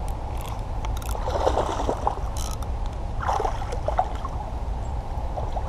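Water splashing and gurgling as a hooked largemouth bass thrashes at the surface while being played in. The splashes come in uneven patches over a steady low rumble.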